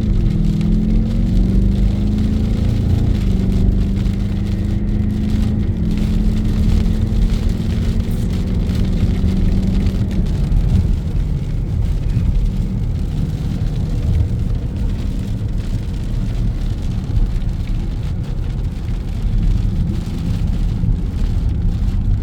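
Heavy rain falling steadily, with a vehicle engine running low under it that fades out about ten seconds in.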